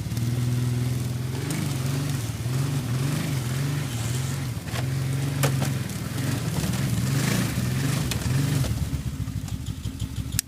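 A motor vehicle's engine running, its pitch rising and falling over and over as the throttle changes, with a few sharp knocks along the way.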